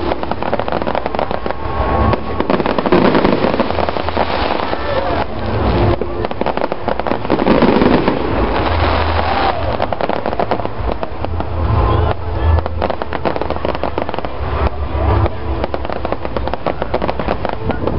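Fireworks display: a dense, unbroken run of crackling and popping over deeper bangs, with people's voices underneath.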